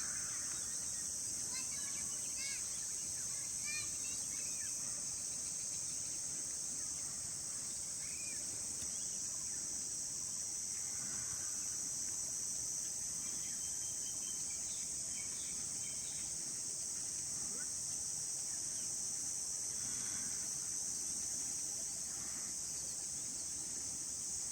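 A steady, high-pitched chorus of insects, with occasional faint bird chirps over it.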